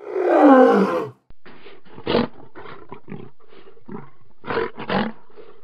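Lion roaring: one loud, long roar that falls in pitch over about a second, followed by a run of short grunts.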